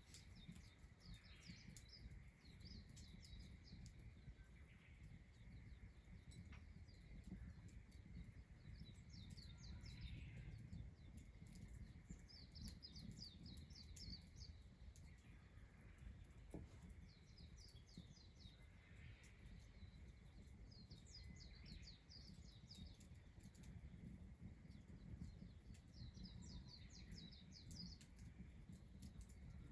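Faint songbird song outdoors: short phrases of rapid high chirping notes, repeated every few seconds, over a low steady background rumble.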